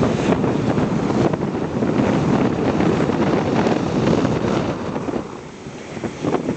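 Wind buffeting the microphone aboard a boat under way, a loud gusty rumble that eases briefly near the end.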